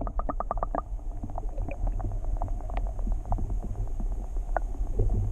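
Muffled underwater sound from a camera held below the pond's surface: a steady low rumble, with a quick run of clicks in the first second and then scattered ticks.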